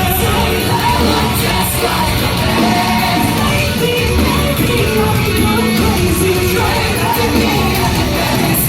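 Live rock band playing loud, with a singer's vocals over dense guitars and drums, steady throughout.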